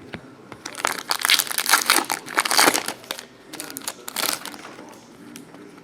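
Crinkling and crumpling of a foil trading-card pack wrapper being handled, dense and crackly for about four seconds before it dies down.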